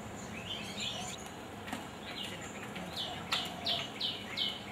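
A bird calling: a run of about six short notes, each falling in pitch, at roughly three a second in the second half, with a few fainter chirps about half a second in.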